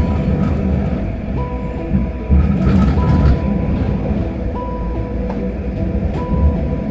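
Vancouver SkyTrain car running along the track: a steady low rumble with a thin electric whine from the propulsion motors that cuts in and out in short flat steps.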